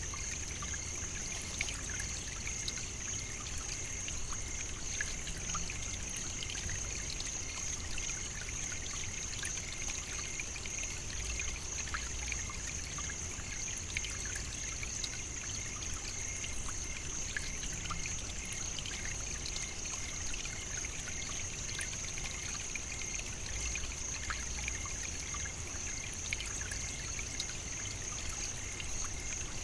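African savannah nature ambience. A steady high-pitched drone is held throughout, with a fainter, lower steady tone beneath it. Many small scattered ticks and crackles sit over a low rumble, and nothing changes across the stretch.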